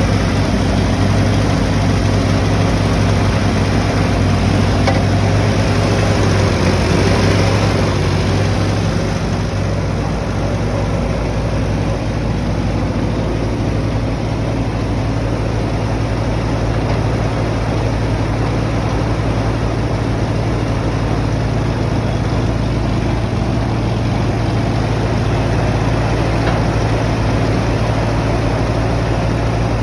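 Allis-Chalmers 170 tractor engine running steadily at idle, a little louder for the first several seconds before settling.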